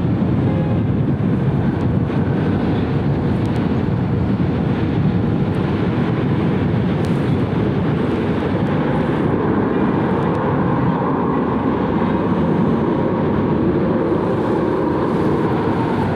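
Jet airliner engines running at high power, a steady loud rumble that holds level throughout.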